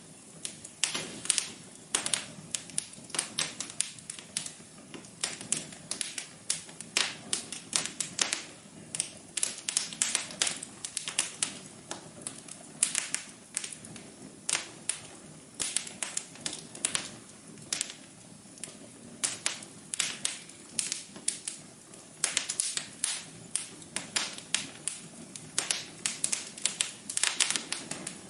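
Wood fire crackling in a fireplace: frequent, irregular sharp pops and snaps over a faint steady hiss.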